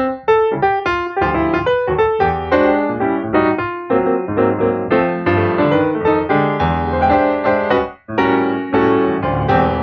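Piano music playing over the credits, a run of quick notes with a brief break about eight seconds in.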